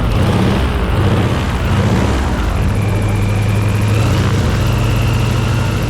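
Yak-55's nine-cylinder radial engine and propeller running steadily and loudly, with a faint high whine above it that steps up slightly in pitch in the second half.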